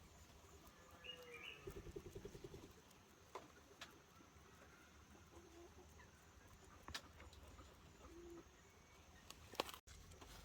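Faint animal calls: a short, rapid, clucking call about two seconds in and two brief low calls later on, with a few light clicks in between.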